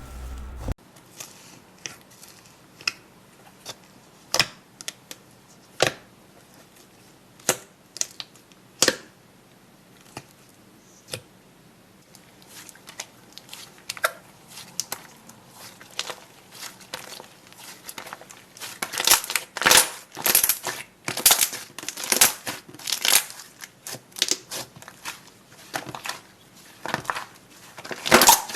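Crunchy slime being pressed and worked close to the microphone, crackling and popping. At first there are scattered single pops, then the crackling grows denser from about halfway and louder in the last third.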